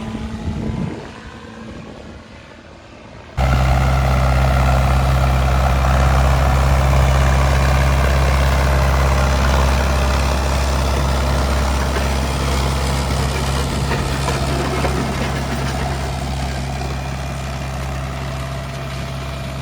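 A passing vehicle fades away. About three seconds in, the sound cuts abruptly to a tractor engine running steadily close by, a low even note with little change.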